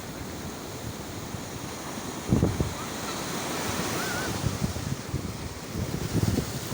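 Sea waves washing on the shore in a steady rush, with wind buffeting the microphone in low rumbling gusts, one strong gust a little past two seconds in and more through the second half.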